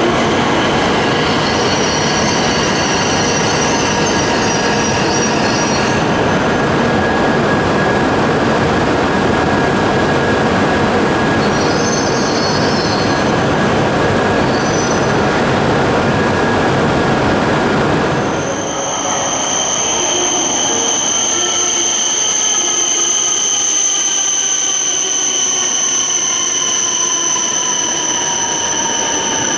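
Shinkansen train running through the station with loud rolling noise and intermittent high wheel squeals. About two-thirds in, the rolling noise drops away, leaving a steady high whine and motor tones that slowly fall in pitch as the train slows.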